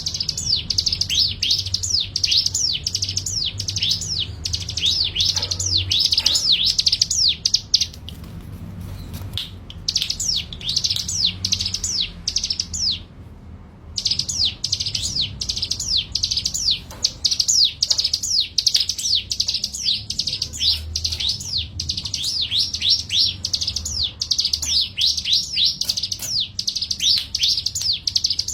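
Wild-caught songbird chirping in fast runs of short, high, downward-sliding notes, several a second, with two brief breaks about a third of the way and halfway through.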